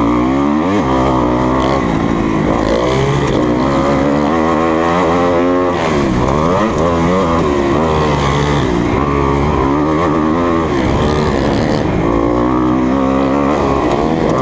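The single-cylinder four-stroke engine of a 2020 Kawasaki KX250F motocross bike under way, revving up and down as the throttle is opened and rolled off, its pitch rising and falling over and over. Around six seconds in the revs drop sharply, then climb again.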